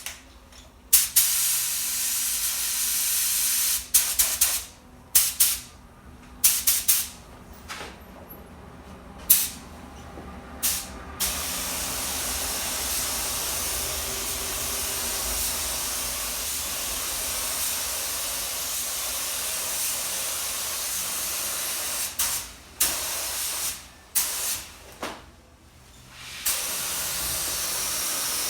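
Compressed-air paint spray gun with a 1.3 tip hissing as paint is sprayed: a few short trigger pulls, then a long steady pass starting a little over a third of the way in, more short bursts, and another steady pass near the end.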